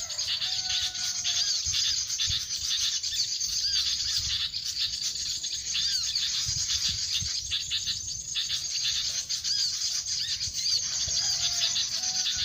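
Wild birds calling: short, repeated, arched chirps over a dense, steady, high-pitched chatter, with a few lower whistled notes near the start and the end.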